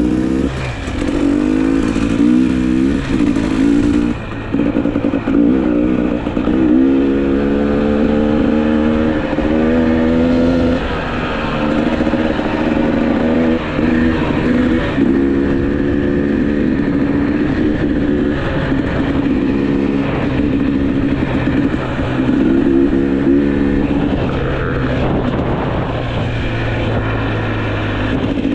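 GasGas EC300 two-stroke dirt bike engine pulling hard under way: its pitch climbs over a few seconds, drops back, then climbs again, over and over.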